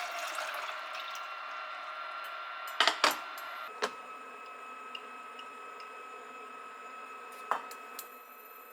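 Kitchen sounds: running water tapering off, then a few sharp clinks and knocks of dishes, two close together about three seconds in and one more near the end.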